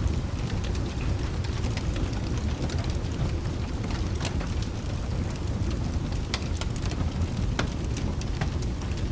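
Steady rain with a continuous low rumble underneath, and the scattered sharp pops and crackles of a wood fire in a fireplace.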